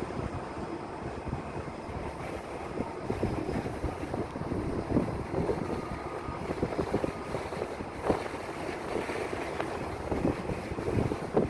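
Thunderstorm wind gusting against the microphone in irregular low buffets over a steady rushing noise.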